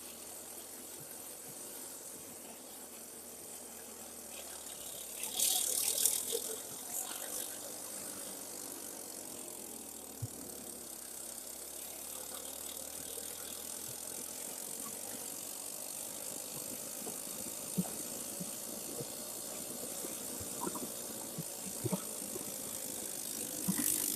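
Irbis Dingo T110 snowmobile's small single-cylinder engine running steadily while riding, with the track and chassis rattling and clicking. Two louder hissing bursts come through, one about five seconds in and one near the end.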